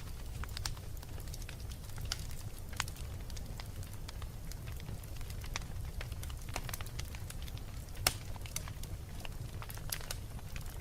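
Wood fire crackling in a fireplace: irregular sharp pops and snaps over a low, steady rumble, with one louder pop about eight seconds in.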